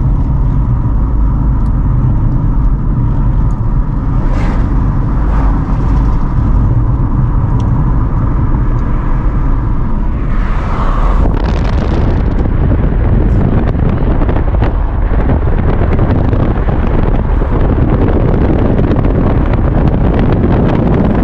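A car driving along the road: steady engine and tyre rumble, with a louder hiss joining about halfway through.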